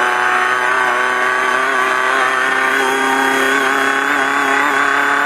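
Off-road race car's engine running at steady revs, heard from inside the car. Its note holds nearly level, with only a slight waver.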